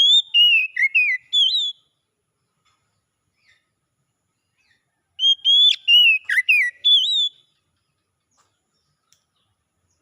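Oriental magpie-robin singing: two short phrases of clear whistled notes that slide up and down, about five seconds apart.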